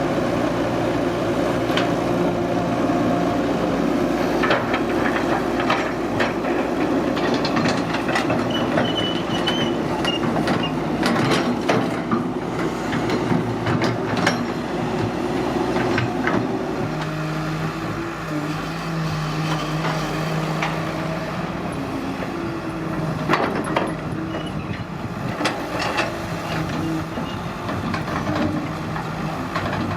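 Diesel engine of a hydraulic excavator running under work, its note shifting about halfway through, with scattered metallic knocks and clanks.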